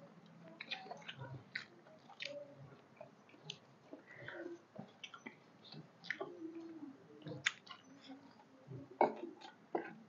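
Close-miked chewing, with irregular wet smacks and clicks as two people eat rice and fish curry by hand from steel plates. Soft squelching comes from rice being mixed with the fingers.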